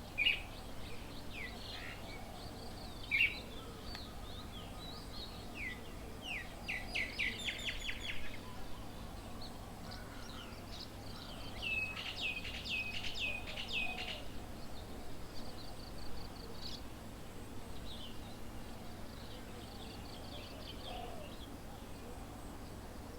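Several small birds chirping and calling, with a quick run of chirps about seven seconds in and a string of repeated sharp calls around the middle, over steady low background noise.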